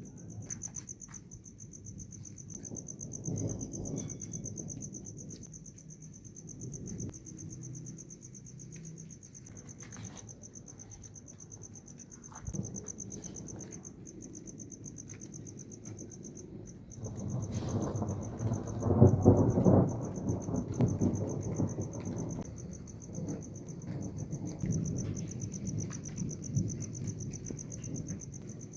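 Thunder rumbling during a rainstorm, swelling into a loud, long roll about two-thirds of the way through, with a fainter rumble near the start. A steady high insect trill, like a cricket, runs underneath.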